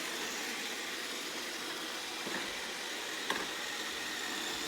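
iRobot Roomba 692 robot vacuum running: a steady whirring hiss with a faint high whine. A short click about three seconds in.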